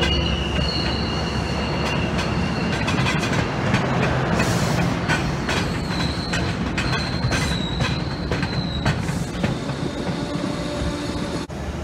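Train passing on the rails: the wheels squeal in thin high tones that come and go, over steady rolling noise and frequent clicks of wheels over rail joints.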